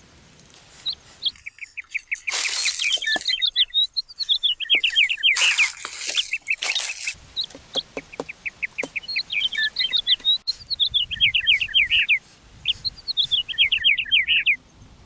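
A bird calling in long runs of rapid, repeated chirps, several runs one after another, with a few loud bursts of rustling in the first half.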